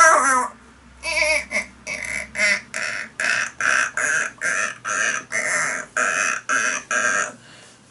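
A man imitating an animal with his voice: a warbling call ends about half a second in, then a steady run of short grunting squeaks follows, about two and a half a second.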